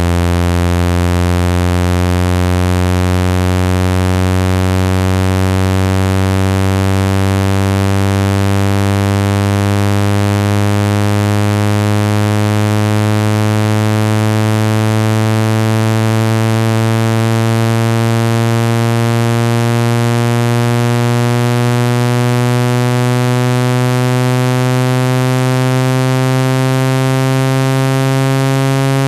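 Synthesized speaker-cleaning tone, meant to shake dust out of a phone speaker: a loud, buzzy low tone rich in overtones, slowly gliding upward in pitch.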